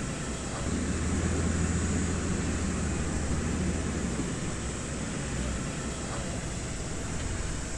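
Heavy construction machine's diesel engine running steadily with a low hum, swelling a little about a second in and easing back around the middle.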